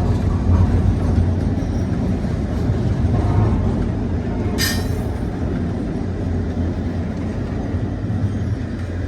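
A passing train's cars rolling by with a steady low rumble, and a single sharp knock about four and a half seconds in.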